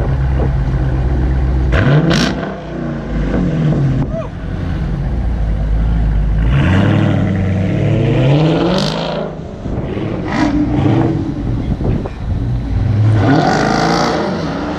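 Car V8 engines idling, then revved several times: a short rev about two seconds in, a longer rise and fall around the middle, and another rev near the end.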